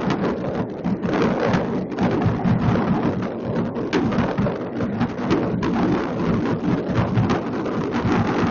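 Many fireworks bursting and crackling at once, a dense, unbroken din of overlapping bangs across a city.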